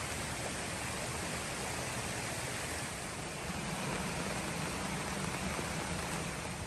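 Steady rain falling, a constant even hiss, with a slightly stronger low rumble in the second half.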